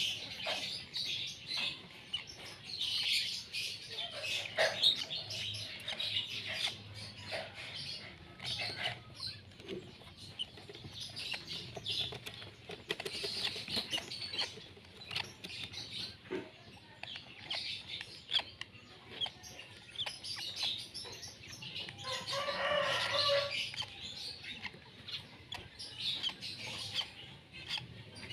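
A flock of lovebirds chirping and chattering in a colony cage, with short high calls one after another and some wing flapping. About 22 seconds in, a louder stretch of close chatter lasts a couple of seconds.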